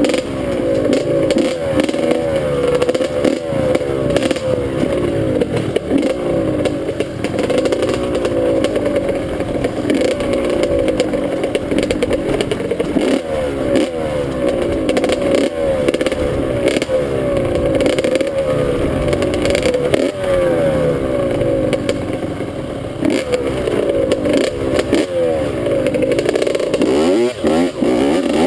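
Dirt bike engine under way, revving up and falling back over and over as the rider works the throttle and shifts.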